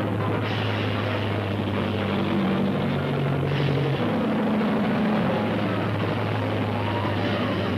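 Rocket ship engine sound effect on an early-1930s cartoon soundtrack: a steady, rough mechanical din with a low hum underneath.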